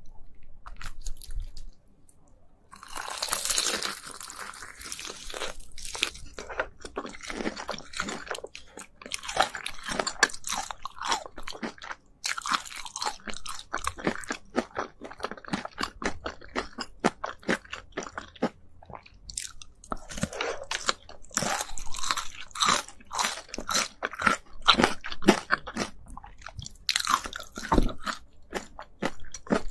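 Biting into and chewing Korean spicy chicken: a dense, irregular run of crunching crackles and chewing, with a short lull about two seconds in.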